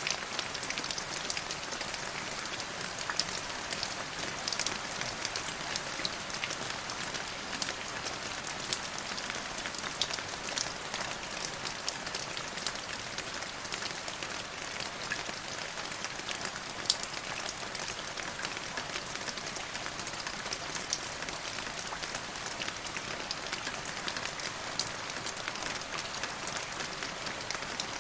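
Steady rainfall, a constant hiss of rain with many individual drops pattering and ticking on a surface.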